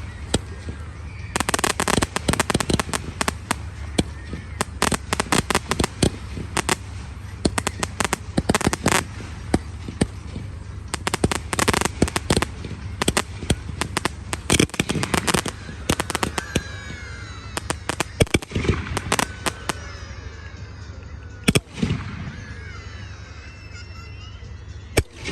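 Low-noise display fireworks crackling: dense, rapid sharp cracks that thin out after about 16 seconds, with a few single louder cracks near the end.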